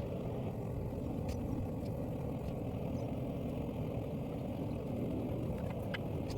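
A steady low roar that holds even throughout, with a few faint sharp ticks over it.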